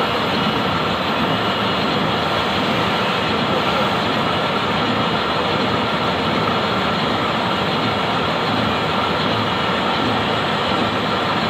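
Steady machinery running without a break, with a faint steady whine over the noise.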